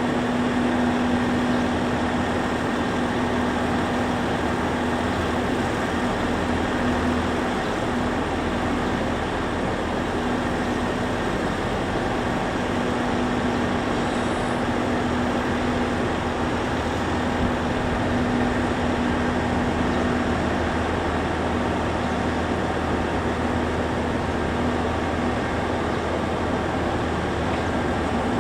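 Steady mechanical hum with a constant low tone, as from a train standing at the platform with its air conditioning and auxiliary equipment running.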